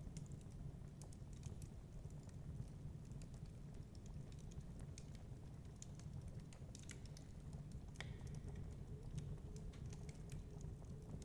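Wood fire crackling in a fireplace: irregular small sharp pops and ticks over a steady low rumble, with one slightly stronger pop about eight seconds in.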